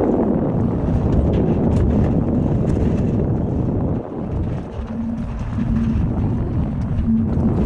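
Steady low rumbling noise with wind on the microphone, dipping briefly about four seconds in.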